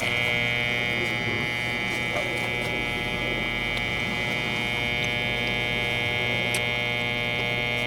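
H10 refrigerant leak detector sounding a steady electronic buzz with a high-pitched tone, switched on to sniff for a refrigerant leak on the coil. It starts abruptly and holds level.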